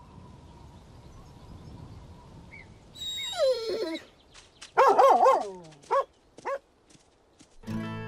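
Cartoon dog vocalising: a falling whine about three seconds in, then a loud burst of barks and two short yelps. Background music comes in near the end.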